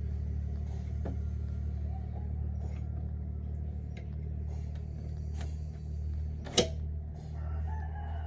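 Scattered clicks and taps of tools on metal over a steady low hum, the loudest a sharp click about six and a half seconds in.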